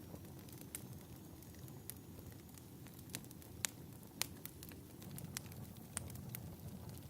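Wood fire crackling in a fireplace: a low steady rumble of flames with irregular sharp pops and snaps, the two loudest pops in the middle.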